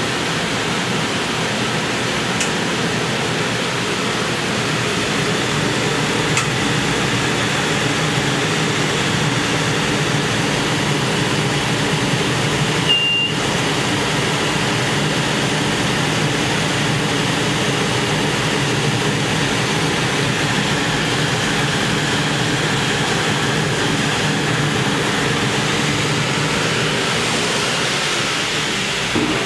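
An engine running steadily at a constant speed, with a dense rushing noise over it.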